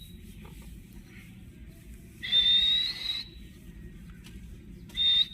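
Parrot giving loud whistled calls: one slightly rising whistle about two seconds in, lasting about a second, and a short whistle near the end.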